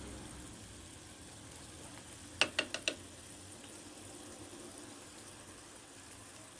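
Food sizzling and simmering faintly in a clay tajine over charcoal, with four quick sharp clinks about two and a half seconds in, a spoon knocking against a dish.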